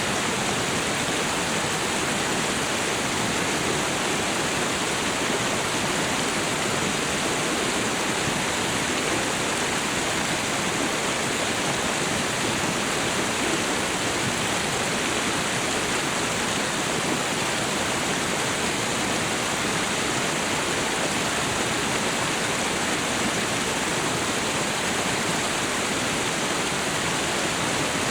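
Waterfall and river water rushing in a steady, unbroken roar of noise.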